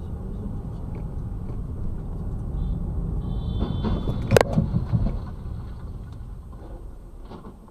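Low rumble of a car driving, swelling and then fading away, with one sharp knock a little past the middle.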